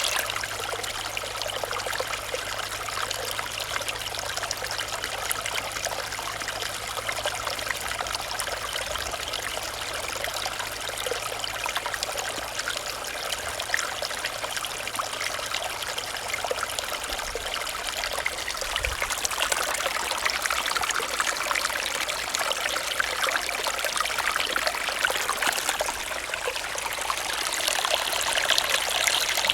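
Small stream of shallow running water, a steady trickle and burble over stones, a little louder near the end.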